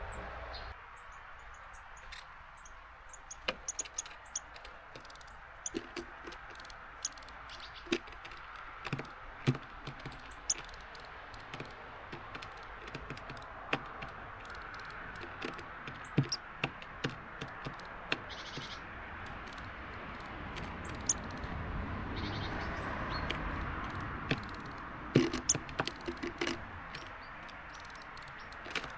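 Small garden birds pecking and hopping on a seed feeder, giving irregular sharp taps and knocks, in clusters a few seconds in and again near the end, over a steady hiss of rain.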